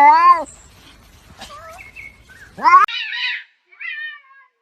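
A cat meowing: one long, drawn-out meow that ends about half a second in, then two shorter, higher meows later, the last one falling in pitch.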